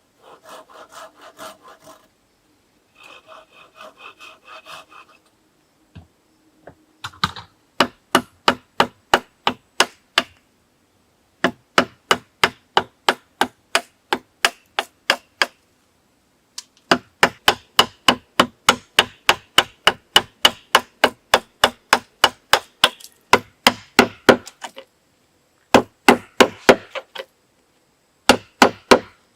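A hand tool working wood. First come a few seconds of soft, quick scraping strokes, then runs of loud, evenly spaced strokes, about three a second, broken by short pauses.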